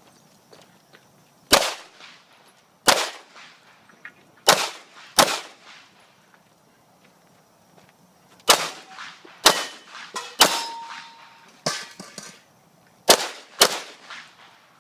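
Sig P229 9mm pistol firing about ten single shots at an uneven pace with short pauses, and steel targets ringing with a clang after hits.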